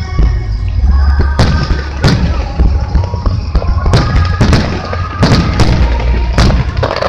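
Aerial fireworks bursting, a string of sharp bangs a second or less apart over a heavy low rumble.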